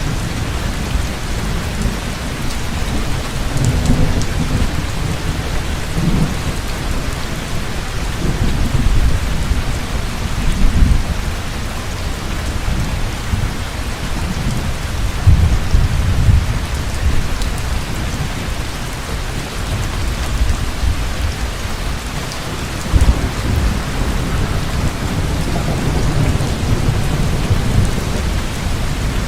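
Heavy rain falling steadily, with low rolling thunder rumbling on and off throughout.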